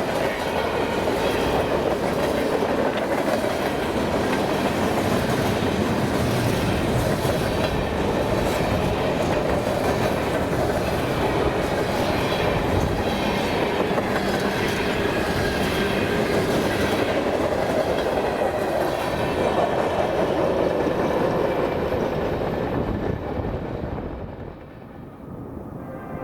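Freight train cars rolling past, the wheels clacking over rail joints, with faint high steady tones from the wheels and rails. The sound falls away sharply near the end.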